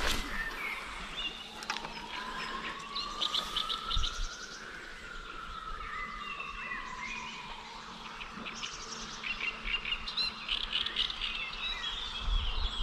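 Small birds chirping and twittering repeatedly, with a faint thin whine that rises in pitch for about three seconds and then slowly falls away.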